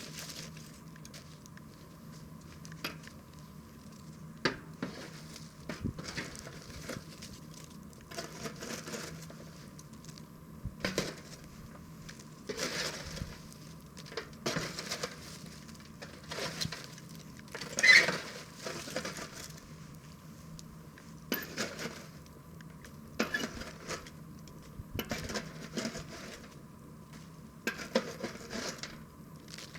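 Wood fire crackling, with irregular snaps and pops over a low steady hum, and one sharper pop a little past the middle.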